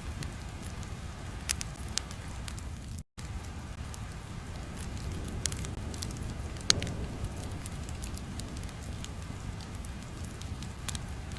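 Ambient sound-effect bed of steady low rumbling noise with scattered sharp pops and crackles, like a crackling fire; the sound cuts out completely for a moment about three seconds in.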